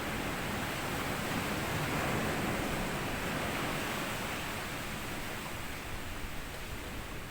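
Small sea waves washing up onto a sand beach: a steady rushing wash that swells about two seconds in and slowly draws back.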